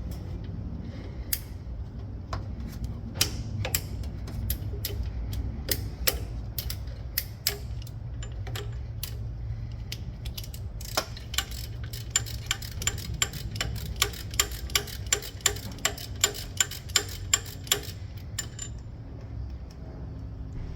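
Hand ratchet wrench clicking as bolts are worked loose to remove an alternator: scattered clicks at first, then an even run of about two or three clicks a second for several seconds, over a steady low hum.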